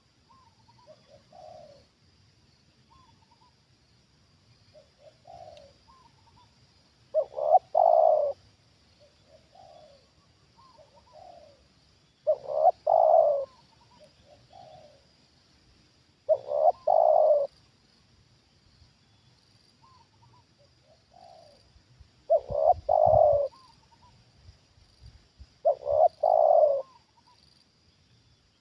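Spotted doves cooing: five loud, roughly one-second coo phrases come about every four to five seconds, with softer coos from another dove in between.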